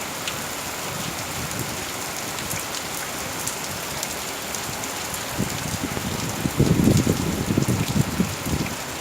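Summer rain falling steadily, with single drops ticking on surfaces. From about five and a half to eight and a half seconds a louder, uneven low rumble rises over the rain.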